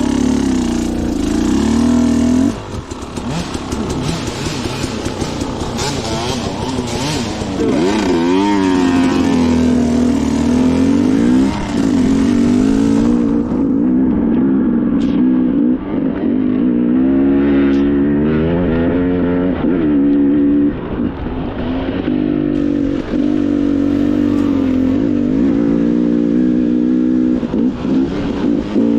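Two-stroke dirt bike engine under riding load, its revs rising and falling constantly as the throttle is worked on the trail.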